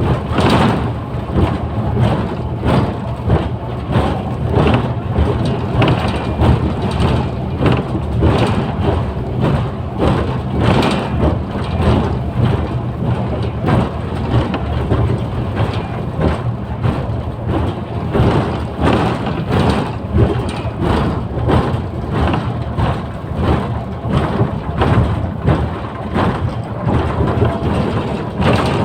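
Mercedes-Benz O530 Citaro city bus under way, heard from inside the cabin: a steady diesel engine drone and road noise, with frequent short knocks and rattles throughout.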